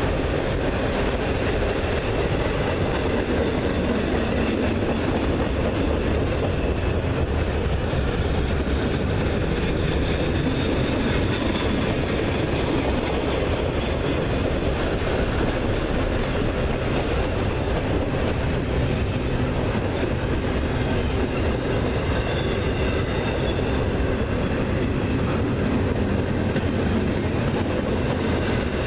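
A train rolling past steadily, its wheels running over the rails with a continuous rumble and clickety-clack.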